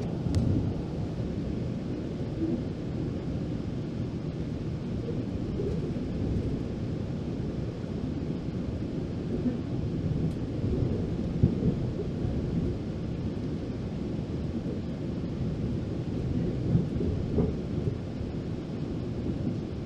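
Steady low rumble of a GO Transit commuter train in motion, heard from inside the coach as its wheels run along the rails, with a few brief louder bumps.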